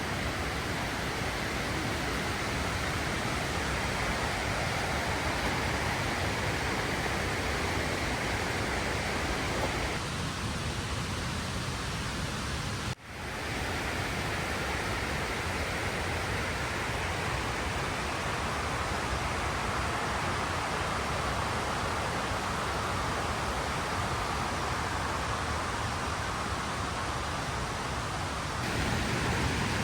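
Steady rushing of falling water from a waterfall, an even hiss with no pitch. Its tone changes abruptly a few times as one take gives way to another.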